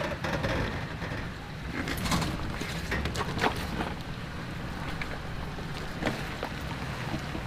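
Toyota 4Runner crawling slowly through a steep off-road obstacle: a steady low engine and drivetrain rumble, broken by about five sharp crunches and knocks of the truck on the terrain.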